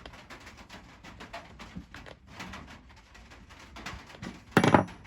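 Screwdriver tightening the Phillips screw that holds a chainsaw's anti-vibration mount to the tank: a run of light, irregular clicks and scrapes, then a loud clatter about four and a half seconds in.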